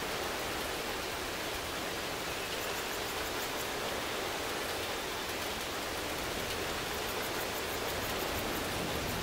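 Steady rain, an even hiss of falling water with no single drops standing out.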